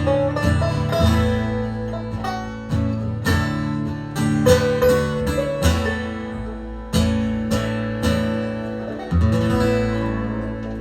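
Live band music without vocals: strummed acoustic guitar chords in the instrumental outro of a song, ringing out and slowly dying away near the end.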